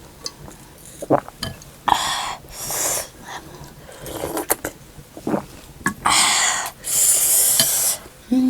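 Close-miked eating sounds: three long slurps of hot soup, with short mouth clicks and chewing between them.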